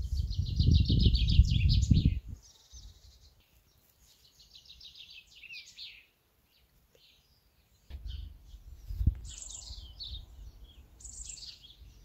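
Songbirds singing outdoors: quick trilled phrases of rapid high notes, then a short gap and scattered chirps.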